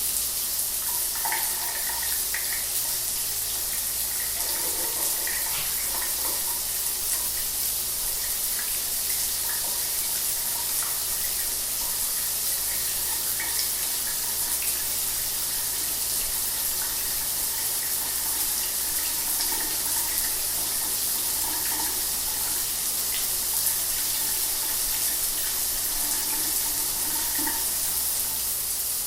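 Shower water running steadily, a continuous hiss of spray with small scattered splashes.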